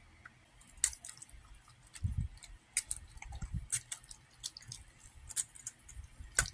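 Wet squishing with scattered, irregular clicks of a utensil in a bowl as an egg is stirred into a thick cream cheese, bacon and cheese filling.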